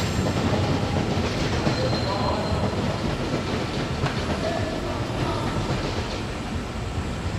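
Passenger train rolling along the track: a steady rumble with wheel clatter and a few faint, short wheel squeals, easing off slightly toward the end.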